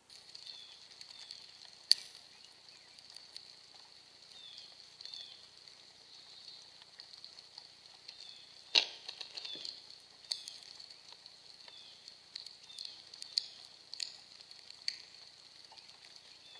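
Short, faint, falling bird chirps repeating over a steady high-pitched hiss, with several sharp clicks. The loudest click comes about two seconds in and another about halfway through.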